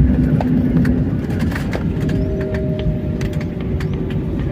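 Jet airliner cabin noise during landing: a loud, steady rumble with many small rattles. A low hum fades about a second in, and two higher steady hums come in about two seconds in.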